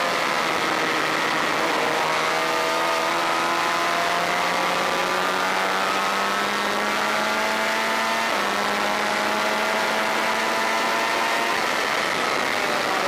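Honda VFR400's V4 engine at racing speed. Its pitch sags briefly, then climbs steadily for about six seconds, drops sharply at an upshift about eight seconds in, and climbs again.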